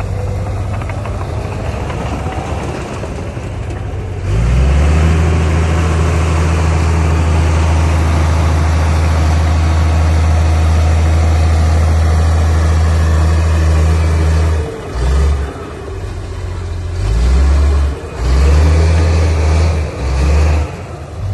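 Heavy diesel earthmoving engine running. It grows louder and steadier from about four seconds in, as if under load, then surges up and down in several short bursts in the last few seconds.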